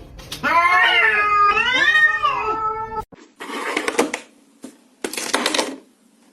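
A cat giving a long, drawn-out yowling meow in two parts, rising and falling in pitch. It breaks off suddenly about three seconds in and is followed by two short rustling noises.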